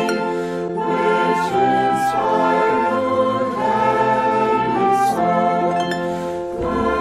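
Slow sacred music: sustained chords that move about once a second, with singing and instruments together.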